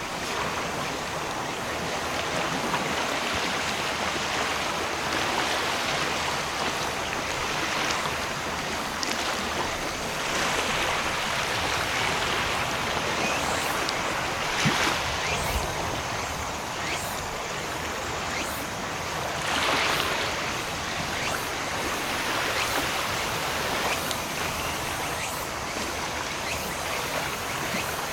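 Waves washing onto a beach in a steady rush, swelling every four to five seconds as each wave breaks.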